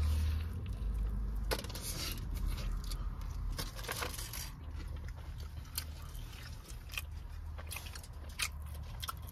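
Chewing and biting into a burrito close to the microphone, with irregular crunches and small wet mouth clicks.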